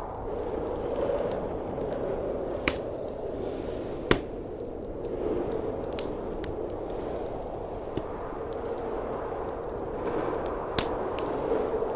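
Wood fire crackling in a fireplace, with a handful of sharp pops, the loudest about four seconds in, over a steady rush of blizzard wind.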